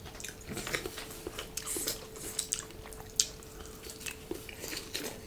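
Close eating sounds: chewing with scattered small clicks of cutlery on dishes, one sharper click about three seconds in.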